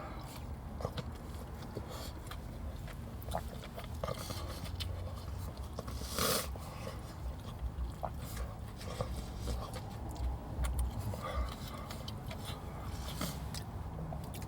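A man chewing and biting into fried chicken, with small wet mouth clicks and a short, sharp breath about six seconds in.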